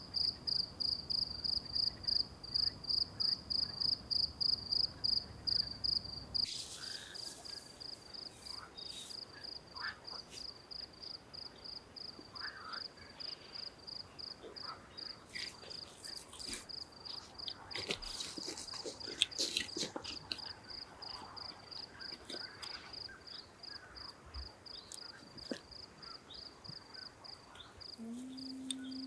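Cricket chirping steadily, about three to four chirps a second. A low rumble under it stops about six seconds in; scattered clicks and crackles follow, and a low steady hum starts near the end.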